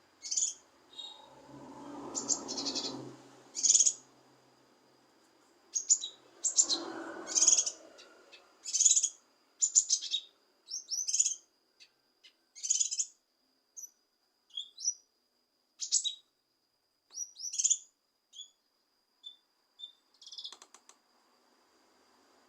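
Cucak kinoi singing: a run of short, sharp chirps and quick whistled phrases, dense at first and sparser toward the end, over a thin steady high tone. Twice in the first half a muffled lower rush of noise sounds under the calls.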